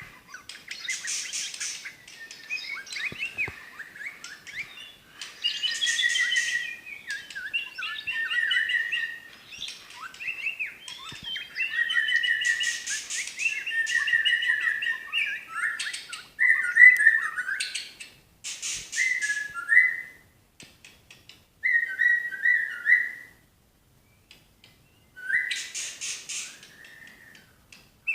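White-rumped shama (murai batu) singing a long, varied song of rich whistled phrases mixed with harsh, buzzy rattling notes, broken by a few short pauses near the end.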